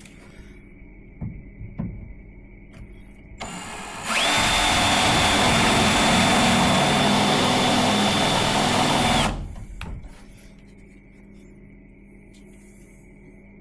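A few light knocks, then a power drill fitted with a spot weld drill bit runs for about six seconds with a steady high whine and stops suddenly.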